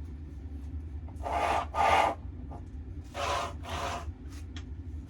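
Four short scraping strokes in two back-and-forth pairs, about two seconds apart, over a low steady hum, followed by a few light ticks.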